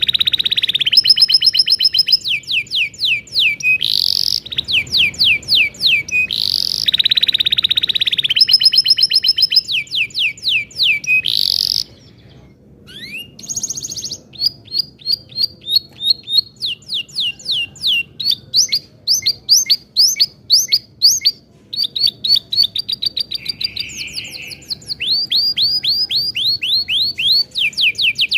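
Domestic canary singing long rolling trills, runs of rapid repeated high notes, with a brief pause about halfway through.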